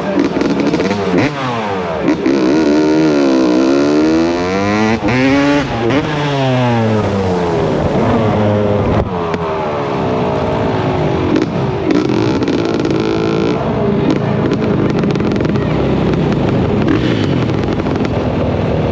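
Motocross bike engines revving, their pitch rising and falling over and over, with more than one bike overlapping in the first several seconds.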